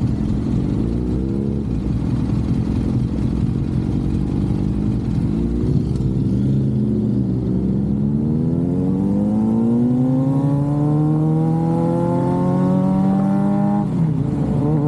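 Suzuki GSX-R sport motorcycle engine accelerating under way. Its pitch climbs briefly near the start, then rises steadily for several seconds, and drops sharply near the end at an upshift. Low wind rush on the microphone runs underneath.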